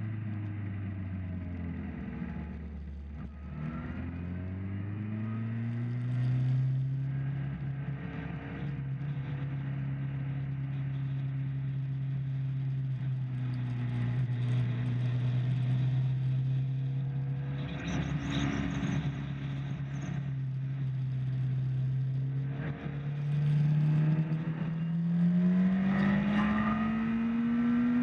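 Motorcycle engine at speed on a race track: its note drops as the bike slows in the first few seconds, climbs again, holds fairly steady for a long stretch, then rises under hard acceleration near the end, over a steady rush of noise.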